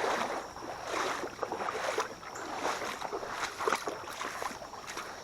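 Irregular rustling and light clicking, with no steady rhythm or tone.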